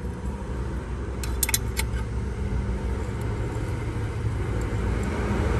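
A motor vehicle engine running steadily in the background, a low rumble, with a few short sharp clicks about a second and a half in.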